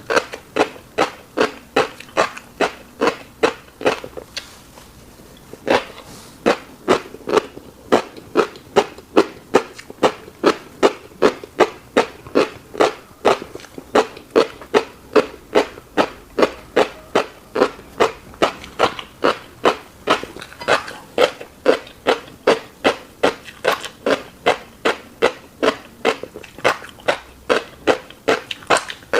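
Close-miked wet chewing of a mouthful of fish roe, with a steady rhythm of about two smacking chews a second and a brief pause about four seconds in.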